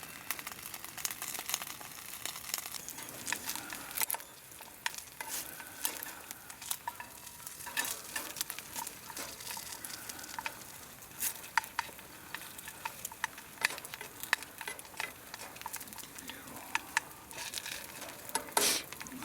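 Food sizzling in a pan while being stirred, with irregular sharp clicks throughout and a louder clatter near the end.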